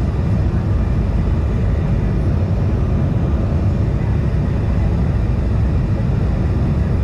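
Steady cabin noise inside a CRJ-550 regional jet in flight: a constant low rumble of engine and airflow.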